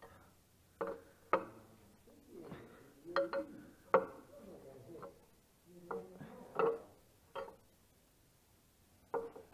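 Hand tools and steel wheel hardware clinking and knocking together: about a dozen irregular metal strikes, each with a short ring, as the dual wheel is worked on.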